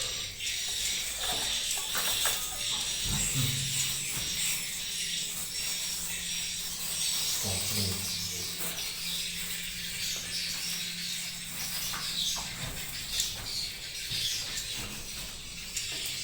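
Many overlapping high twittering swiftlet calls fill the nesting house, over a low steady hum.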